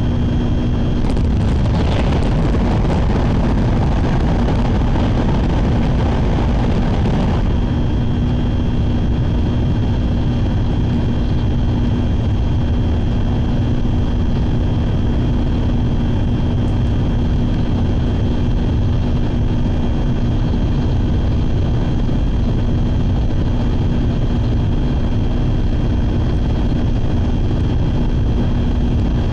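Steady running noise of a Shinkansen Sakura bullet train at speed, heard inside the passenger cabin: a constant low rumble with a steady hum. A louder rushing hiss rides on top for the first several seconds, then drops back.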